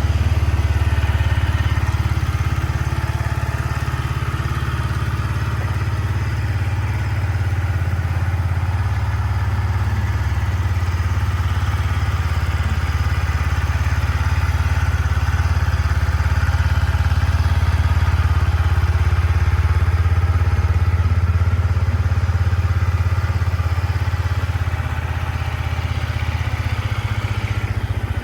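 Yamaha MT-125's 125 cc single-cylinder four-stroke engine idling steadily.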